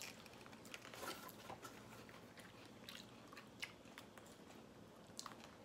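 Faint chewing with a few small crunches, spread through, of crunchy biscuit sticks coated in caramel and milk chocolate being eaten.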